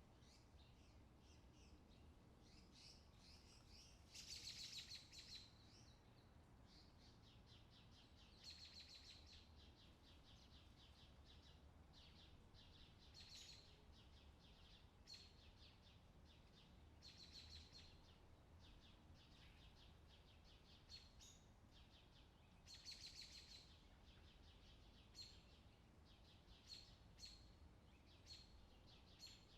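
Faint forest birdsong: a bird repeats quick trilled phrases every few seconds, with short single chirps near the end, over a low steady hum.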